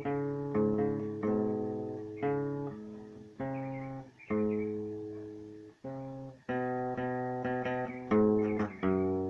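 Guitar music: plucked chords struck about once a second, each left to ring and fade, with a brief break about six seconds in.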